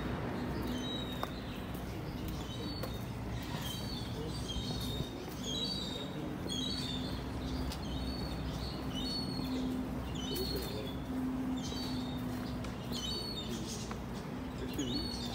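A small bird chirping, short high notes repeated about once a second, over a steady low hum and background rumble.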